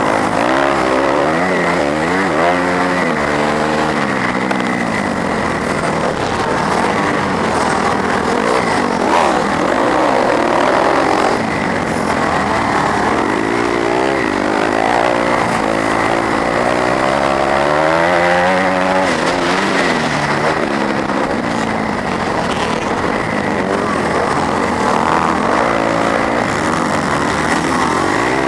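A 250cc four-stroke motocross bike engine, recorded onboard, revving up and dropping back again and again every few seconds as it accelerates, shifts and backs off around the track.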